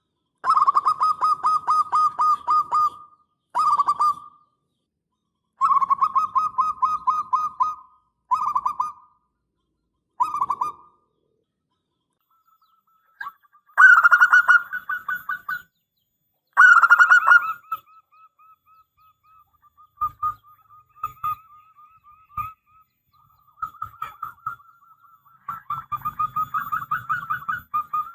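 Zebra dove (perkutut) cooing: repeated phrases of rapid staccato coos, each a second or two long with short pauses between. The loudest phrases come about halfway through, followed by softer, scattered coos.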